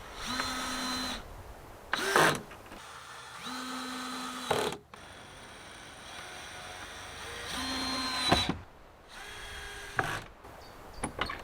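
Power drill running in three short bursts of about a second each, with sharp knocks and clatter between them.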